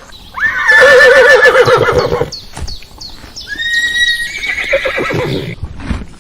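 Horse whinnying: a long call with a quavering pitch, a few short knocks, then a second whinny about four seconds in.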